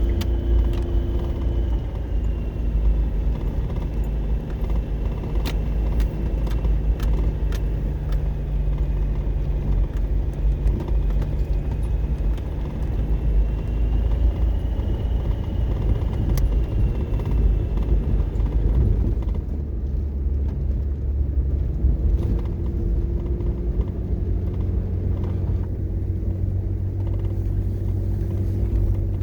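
Motor vehicle engine running with a steady low rumble; its engine note changes about two-thirds of the way through. A few light clicks sound in the first half.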